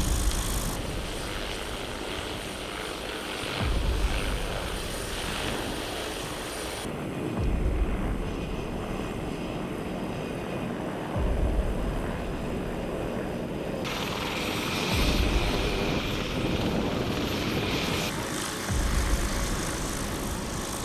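Helicopter rotor and engine noise, with a deep bass thump about every four seconds from background music; the sound changes abruptly several times.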